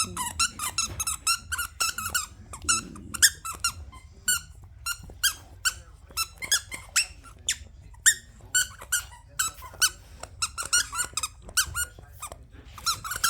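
Rubber squeaky toy pig squeaking over and over in quick, irregular squeaks, several a second, with brief pauses.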